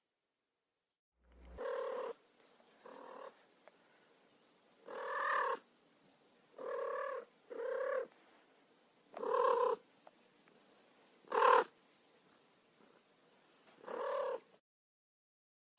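Cat meowing: about eight short, steady-pitched calls, one to two seconds apart.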